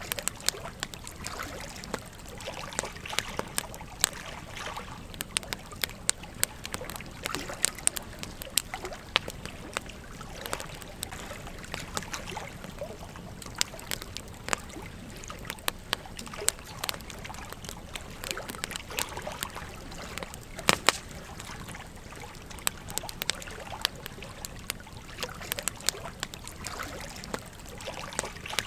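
Wood campfire crackling with frequent irregular sharp pops, over the steady trickle of a gently flowing stream.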